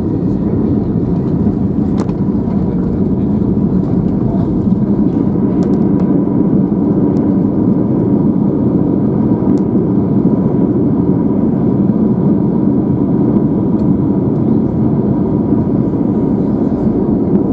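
Steady cabin noise inside an Airbus A321 on the ground after landing: a low, even rumble from the engines and rolling airframe, with a faint steady whine above it.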